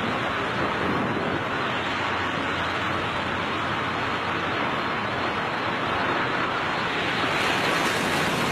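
Steady rushing wind noise of skydivers in freefall, roaring evenly over a camera microphone with no breaks.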